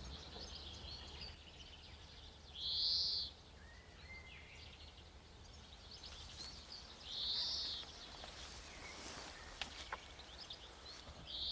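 Outdoor ambience with a bird calling: three short high calls about four seconds apart, over fainter chirps and a low steady hum.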